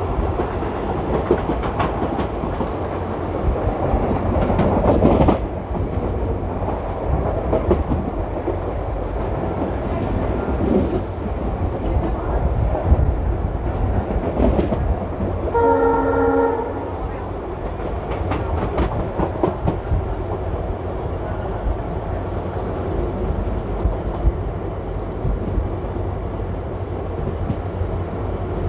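Passenger train running at speed, heard from an open coach doorway: steady wheel rumble and wind noise with wheels clicking over rail joints and points. About halfway through, a train horn sounds once for about a second.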